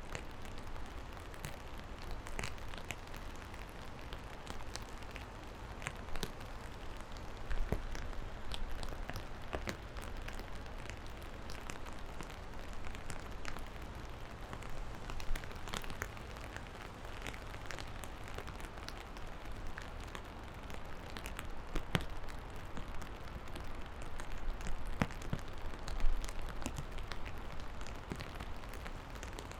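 Steady rain, an even hiss with many separate drops ticking irregularly, a few louder than the rest, one sharp drop near the end. A low steady rumble runs underneath.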